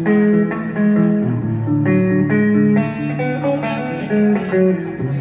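Guitar playing an instrumental passage of a song: picked notes and chords ringing out over a lower bass line, with no singing.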